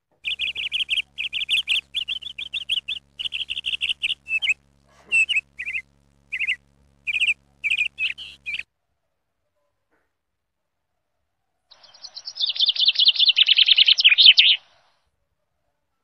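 Small songbirds calling: a fast run of high chirping notes, then single calls spaced about half a second apart, and after a few seconds' pause a louder, harsher rapid chatter.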